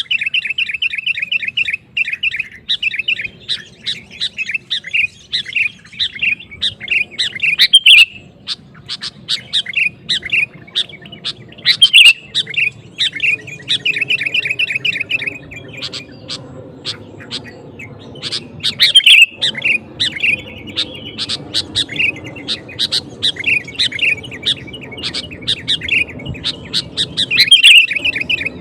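Sooty-headed bulbul singing energetically, a steady run of rapid chattering, bubbling phrases repeated almost without pause, with a few sharper, louder notes.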